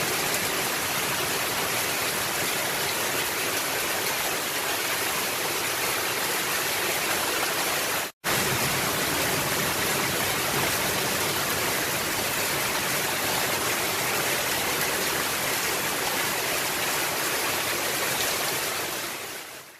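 Rain falling steadily on a roof, a dense, even hiss. It drops out for a split second about eight seconds in and fades away near the end.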